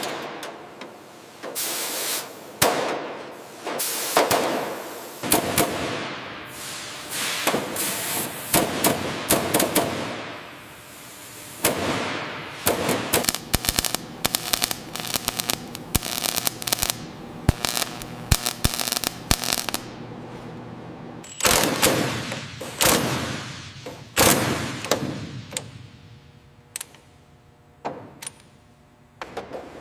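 Hand-tool work on metal: a long run of sharp knocks, clanks and rattles at irregular intervals, some of them ringing briefly, thinning out and quieter about three quarters of the way through.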